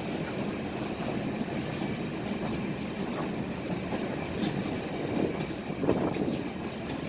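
Freight train rolling past: a steady rumble of wheels on the rails with faint scattered clicks and a brief swell about six seconds in.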